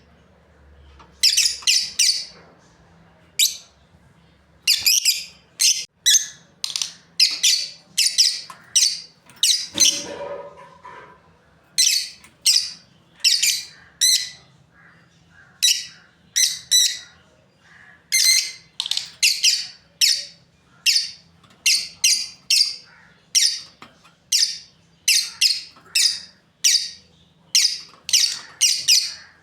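Lovebirds chirping: short, high-pitched chirps in quick clusters, repeating one after another.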